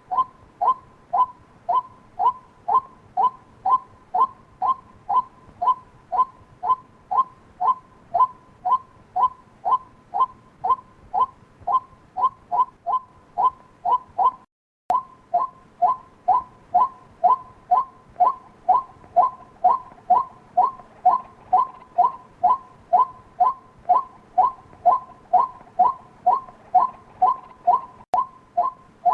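White-breasted waterhen calling over and over in a very even rhythm, about two short two-pitched calls a second. There is a brief break about halfway through.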